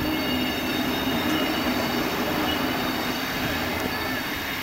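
Electric train running on the rails: a steady rumble with several thin, steady high-pitched tones above it, easing off near the end.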